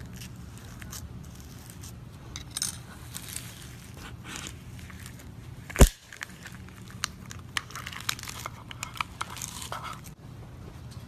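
Slime being squeezed and worked by hand, giving scattered crackles, crinkly clicks and small pops. There is one loud sharp pop a little past halfway, and a denser run of crackling near the end.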